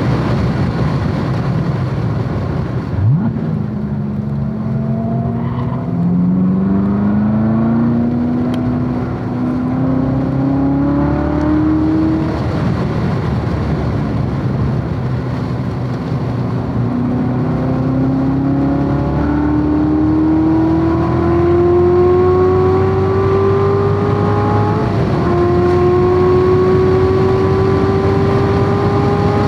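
Corvette C7 Z06's supercharged V8 under hard acceleration on track, its note climbing steadily in pitch through long pulls. About four-fifths of the way through there is a quick gear change where the pitch drops before it climbs again. Steady wind and road noise run underneath.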